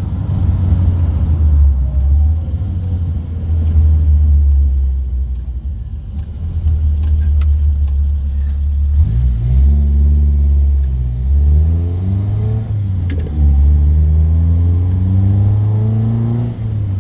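Classic car engine heard from inside the car, easing off, then accelerating with pitch rising in one gear, dropping at a gear change, and rising again in the next gear.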